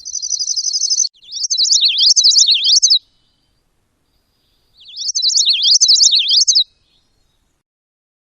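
A songbird singing two phrases: a rapid high trill running straight into a string of quick down-slurred notes, then after a pause of about two seconds another string of the same slurred notes.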